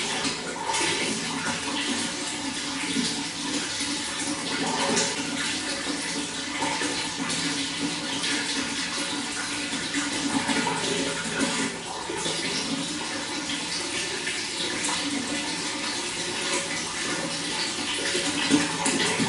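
Running water flowing in a steady rush.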